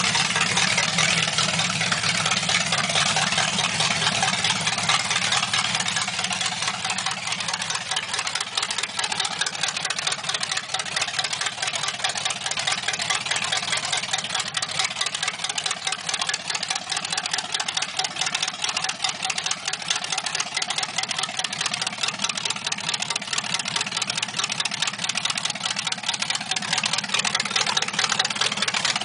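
283 small-block Chevy V8 idling steadily through short open headers, a fast, even exhaust beat.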